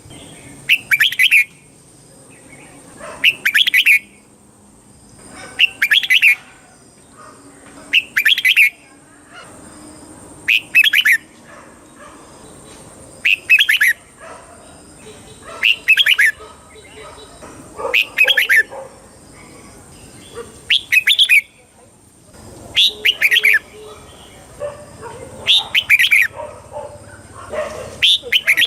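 Red-whiskered bulbul singing: short, bright, warbling phrases repeated about every two seconds, with a faint steady high whine underneath.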